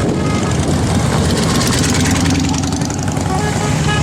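Motorcycle engines running, loud and steady.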